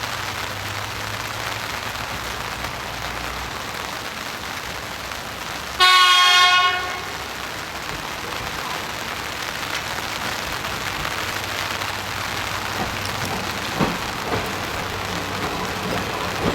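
A diesel railcar's horn sounds once for about a second, loud and steady in pitch, over a steady hiss and a low hum.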